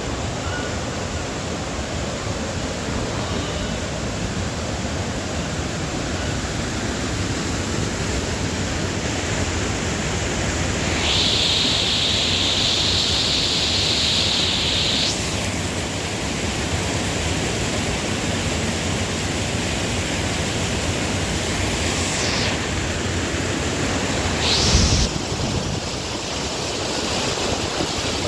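Waterfall rushing, a steady loud wash of water noise. A brighter hiss rises for a few seconds partway through, and a short thump comes about three-quarters of the way in.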